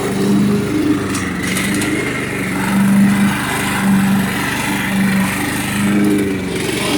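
Craftsman lawn tractor's 16.5 hp Kohler Command engine running steadily while mowing, its note swelling and falling in a regular pulse. The owner notes that the engine always pulses even though the fixed-jet carburetor is clean.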